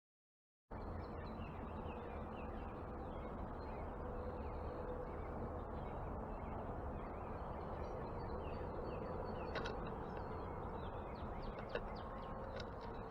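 Backyard ambience starting abruptly just under a second in: a steady outdoor noise bed with many faint, quick bird chirps and twitters scattered throughout, and a couple of sharp clicks near the end.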